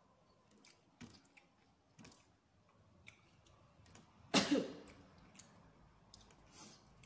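Close-up eating sounds of a person chewing fish: scattered soft mouth clicks and smacks. About four and a half seconds in comes one short, loud cough.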